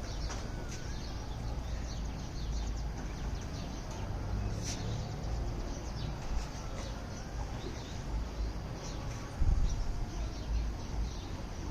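Outdoor background noise with a steady low rumble and scattered short bird chirps, plus a brief louder low thump about nine and a half seconds in.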